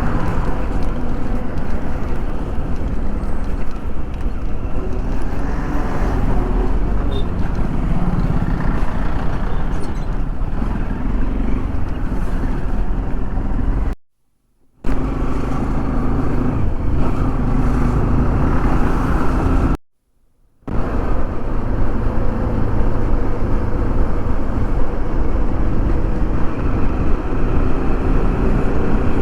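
Motorcycle riding through road traffic: a steady mix of engine and road noise, broken by two brief dead silences about halfway through.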